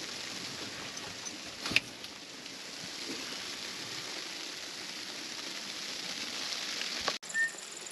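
Steady patter of falling precipitation, with a single sharp knock about two seconds in; the sound cuts off abruptly near the end.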